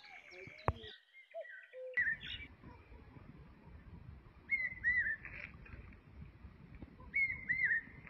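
A small bird calling in short phrases of two quick, high, downward-curving chirps, repeated about every two and a half seconds over a faint outdoor background hiss. A single sharp click comes about a second in.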